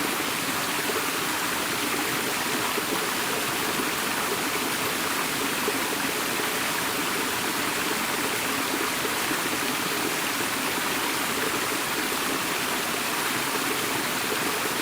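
Flowing water, a steady, even rush without breaks, as of a stream.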